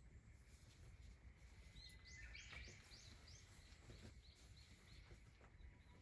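Faint songbird song: a quick run of repeated high chirps starting about two seconds in, trailing off into a few more spaced chirps, over a low, quiet background rumble.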